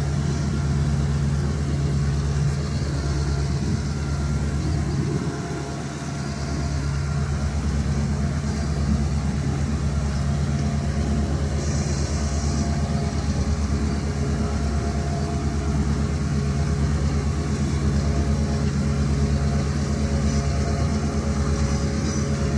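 A train's locomotive engine running steadily, a deep even drone, with a brief hiss about twelve seconds in.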